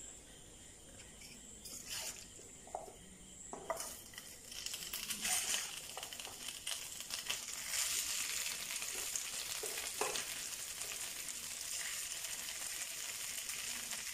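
Grated coconut frying in a hot nonstick pan, with a few knocks of a wooden spatula. About halfway, the sizzling grows louder and then holds steady as the cooked chana dal, yam and raw banana mixture goes into the pan and is stirred through.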